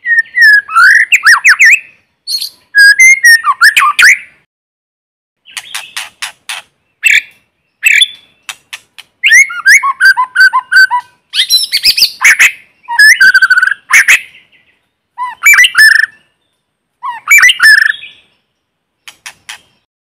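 White-rumped shama giving its challenge song: about eight separate phrases of varied clear whistles, rapid trills and sharp clicking notes, with clean silence between phrases.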